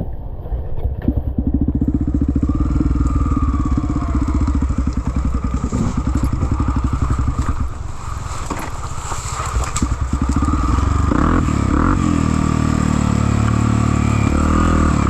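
Trail motorcycle engine revving hard on the throttle. It eases off briefly about eight seconds in, then pulls louder again from about ten seconds in.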